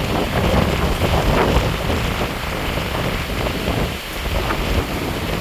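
Strong storm wind buffeting a phone's microphone: a loud, gusting rush with heavy low rumble that rises and falls.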